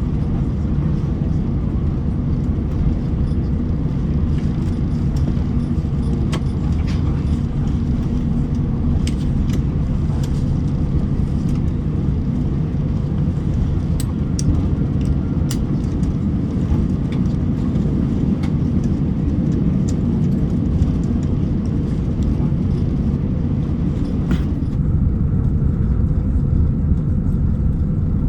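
Cabin noise inside an Airbus A350-900 taxiing: a steady low rumble from the Rolls-Royce Trent XWB engines at taxi thrust and the rolling aircraft, with occasional light clicks.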